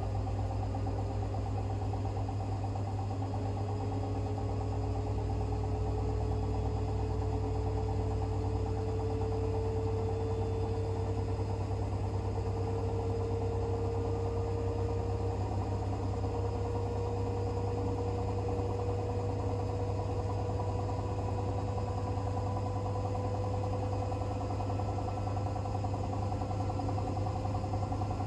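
Hoover H-WASH 500 washing machine running continuously: a steady low hum with a motor whine that climbs slowly and evenly in pitch.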